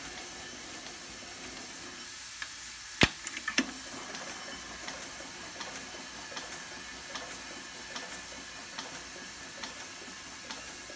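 Allen Mogul locomotive running slowly in reverse on about 10 psi of compressed air: a steady hiss of air with faint regular ticks a little over one a second. A sharp click about three seconds in, followed by a few smaller clicks.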